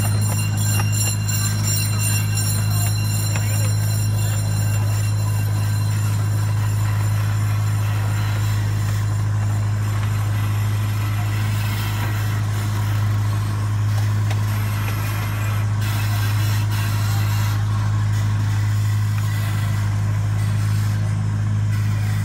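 Narrow-gauge zoo train in motion, heard from an open passenger car: a steady low hum that holds without a break.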